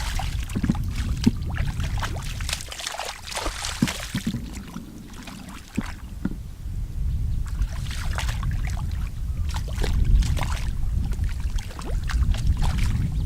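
Water sloshing and splashing, with scattered knocks, over a steady low rumble. The sound dips about halfway through.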